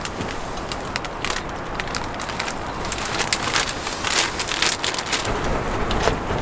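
A utensil clicking and scraping in a mixing bowl, irregularly, as vegetables are stirred into pancake batter.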